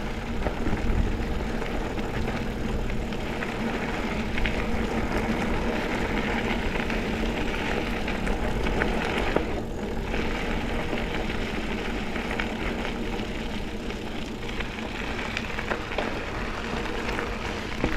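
Mountain bike riding along a dirt double-track trail: steady rolling noise from the tyres and drivetrain, with many small ticks and rattles.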